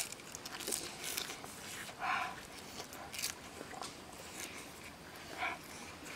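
A person chewing a mouthful of grilled fish close to the microphone, with wet smacking and small clicks of the lips and tongue, and a couple of short breathy sounds from the mouth.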